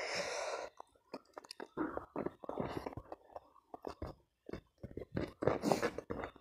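Close-miked chewing of a person eating: a run of wet mouth clicks and smacks, with a longer noisy burst right at the start and another about five and a half seconds in.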